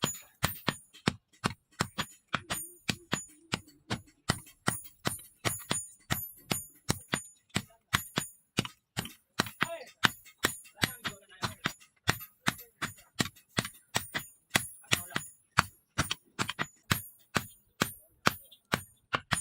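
Hammer striking leaf-spring steel on an anvil in a steady rhythm, about three to four blows a second, each blow ringing bright and metallic.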